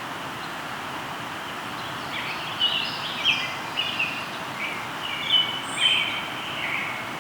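River flowing steadily, with a songbird singing a run of short chirps and trills that starts about two seconds in and lasts about four seconds.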